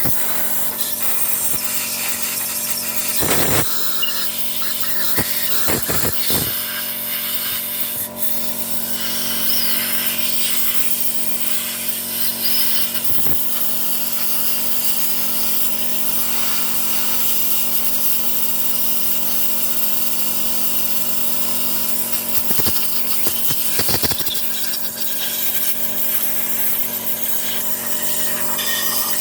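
Compressed-air blow gun hissing loudly as diesel is blown off washed motorcycle engine parts, with a steady hum underneath. A few brief louder blasts come at about three and a half, six and twenty-four seconds in.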